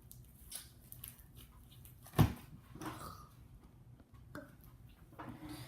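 Foam-bead slime being squeezed and stretched by hand, giving scattered small clicks and pops, with one much louder pop about two seconds in.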